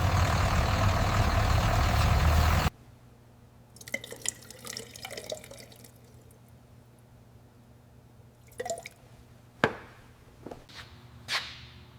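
A heavy engine running steadily, cutting off abruptly just under three seconds in, followed by faint scattered drips, ticks and light taps.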